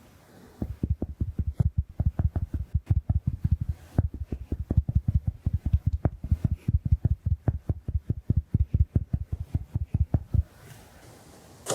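Big makeup sponge dabbed rapidly against the microphone: soft, low thuds at about six a second, stopping shortly before the end.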